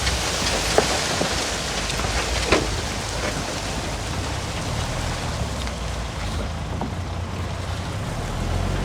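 Heavy diesel earthmoving machinery running steadily: a low engine drone under a dense hissing rush, with a couple of sharp clanks about one and two and a half seconds in.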